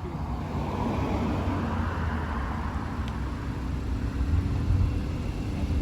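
Car engine running at low revs, a steady low rumble, with a swell of louder noise in the first two or three seconds.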